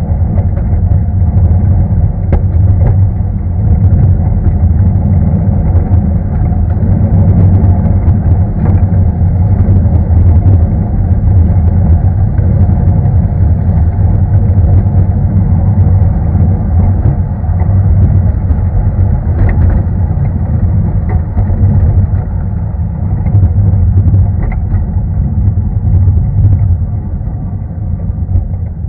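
Steady low rumble of a narrow-gauge train's open passenger coaches rolling along the track, with scattered faint clicks from wheels and rails. It quietens a little near the end.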